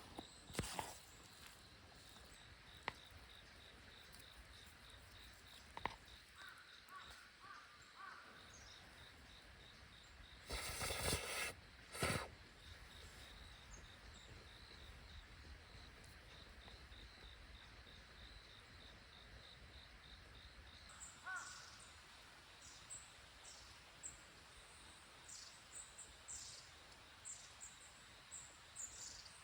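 Quiet woodland ambience with two loud bird calls near the middle, and small birds chirping in short high notes through the second half.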